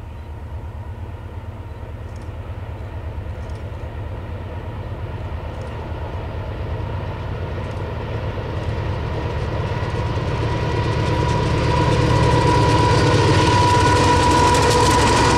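Several GE diesel locomotives heading a double-stack container train approach and grow steadily louder. It is a low engine rumble with a steady whine, reaching full loudness as the lead units pass about twelve seconds in.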